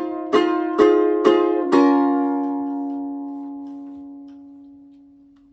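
Ukulele strumming four closing chords about half a second apart, the last chord left to ring and slowly fade out, ending the song.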